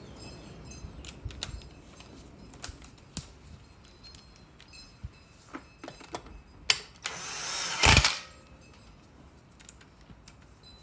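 Hand tools and small metal engine parts clicking and tapping as a small engine is reassembled. About seven seconds in, a power tool runs in one loud burst of about a second.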